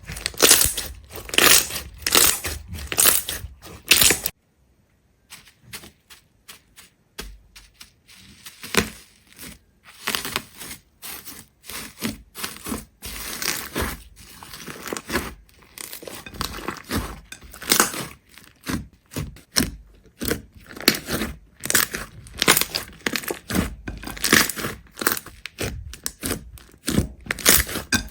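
Crisp crunching and crackling in quick, repeated strokes. It breaks off briefly about four seconds in, comes back faint, and builds up louder again later on.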